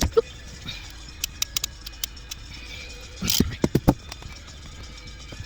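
Scattered light clicks and taps, then a quick run of four or five louder knocks about three seconds in, over a steady low hum.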